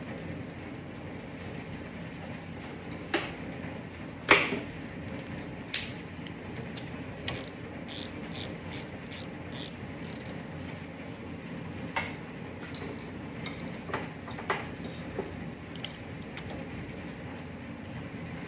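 Hand tools clinking and knocking, with a ratchet clicking in short runs, as the brake caliper bolts are put back in, over a steady low hum. The loudest knock comes about four seconds in.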